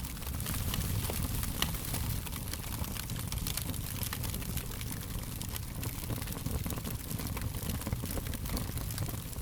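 Wood fire crackling: many small, irregular pops and snaps over a steady low rumble of burning, with one sharper pop about a second and a half in.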